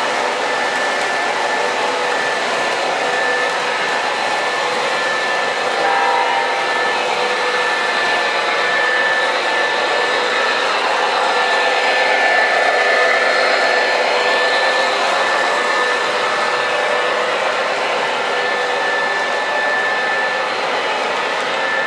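MTH Premier ES44AC O-gauge model diesel locomotive running on its track: a steady whirring rush with a thin steady high tone, swelling as it passes closest about twelve to fourteen seconds in.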